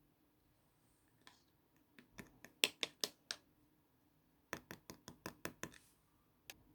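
Dried clay avocado crust cracking as it is pressed and broken by hand. There are two runs of sharp crackles a little over a second apart, then a single crack near the end.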